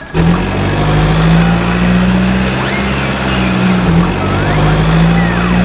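A truck engine sound effect, a steady low drone, with a few short gliding whistle-like tones over it.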